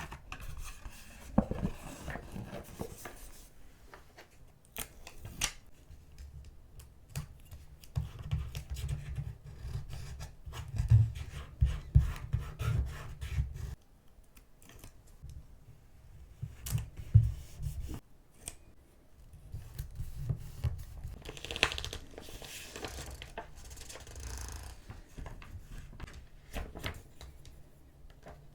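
Scissors snipping through paper in repeated short cuts, mixed with the rustle and light taps of paper being handled on a desk.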